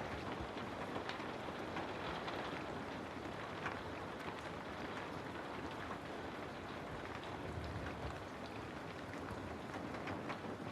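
Steady rain falling, with many scattered individual drops ticking over an even hiss.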